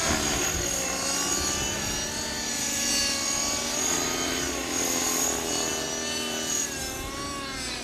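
Align T-Rex 500 electric radio-controlled helicopter in flight: the rotor beat and high motor whine rise and fall in pitch as the head speed and load change.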